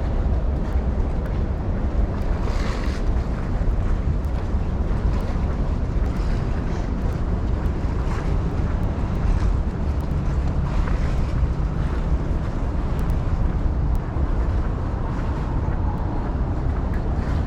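Wind buffeting the microphone as a steady low rumble, over faint outdoor street ambience.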